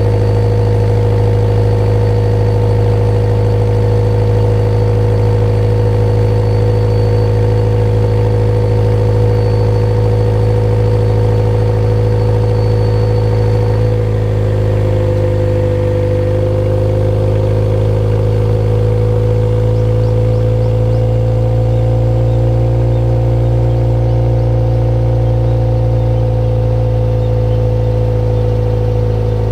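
Subaru Legacy B4 2.0GT's EJ20 turbocharged flat-four idling steadily through an HKS ES Premium aftermarket exhaust, with a deep, even exhaust note. About halfway through, the idle pitch dips slightly and then slowly climbs back.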